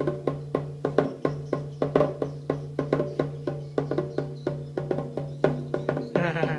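Street monkey show (topeng monyet) accompaniment: a fast, even beat of hand-struck percussion, about four to five strikes a second, over a steady ringing tone.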